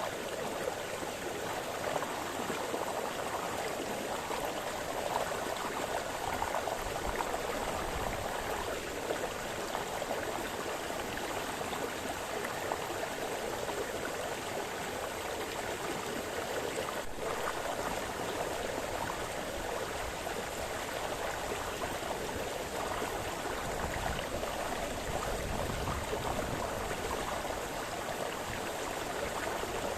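Small forest brook splashing and burbling over stones, a steady rush of running water.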